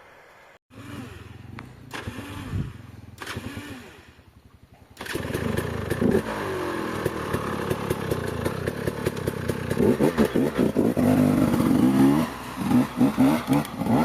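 Trail motorcycle engines idling with short throttle blips. About five seconds in, a louder engine starts up close by and runs, revved repeatedly toward the end.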